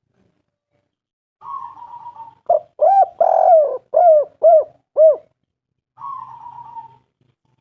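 Spotted dove calling. About a second and a half in, a soft wavering trill leads into a run of about seven short, loud coos with one longer rough coo among them, and another soft wavering trill follows near the end.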